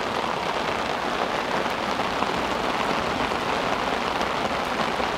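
Heavy rain pouring down, a steady, even patter with no let-up.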